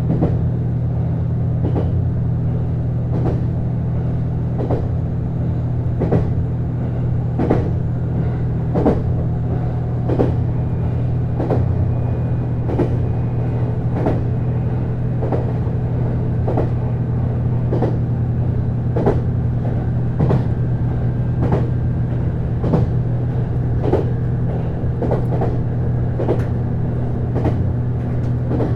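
On-board running sound of a JR East HB-E210 series hybrid railcar travelling at steady speed. A constant low hum, which is typical of its Komatsu DMF15HZB-G diesel engine-generator, runs under a regular click of the wheels over rail joints, a little more than once a second.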